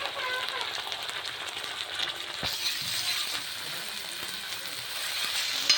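Chopped onion, green chilli and onion-garlic paste sizzling in hot oil in a pan, with sauce just added, with a steady crackle and occasional metallic clinks against the pan; a sharp clink near the end.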